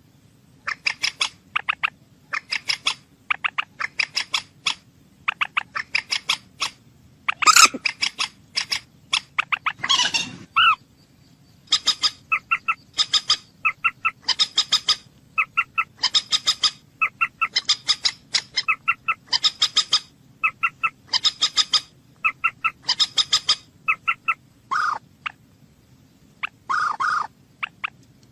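A bird calling in quick runs of short, sharp notes, four to six to a run, repeated about once a second. A few lower, longer calls come in between.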